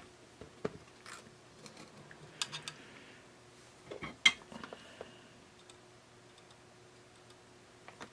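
Scattered light clicks and taps of small tools and parts being handled at a bench during soldering work on a radio, the loudest tap about four seconds in, over a faint steady hum.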